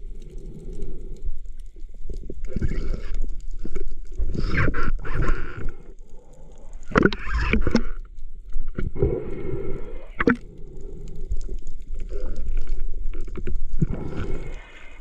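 Water splashing and sloshing in irregular bursts about every one to two seconds, with a few sharp knocks, over a steady low rumble.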